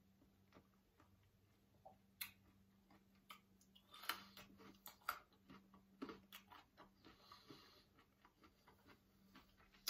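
Faint chewing with scattered sharp mouth clicks, over a low steady hum.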